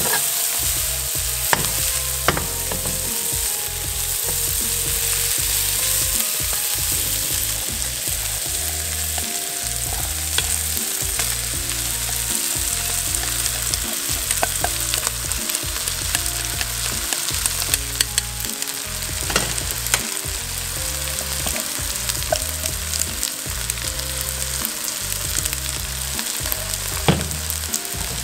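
Egg-coated rice and sausage stir-frying in a nonstick wok, sizzling steadily, with the spatula knocking and scraping against the pan every few seconds.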